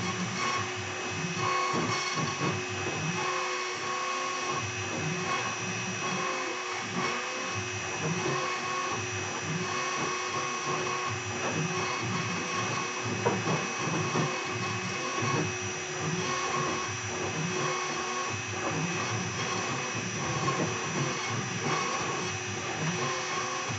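A 2.2 kW air-cooled CNC router spindle running steadily with a high whine while it carves, with a tone from the machine's motors that comes and goes every second or so as the bit moves, over a steady rushing noise.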